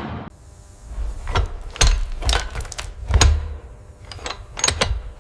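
An irregular series of sharp metallic clanks and knocks, about ten strikes, some with a heavy low thud, as of heavy metal parts being worked on.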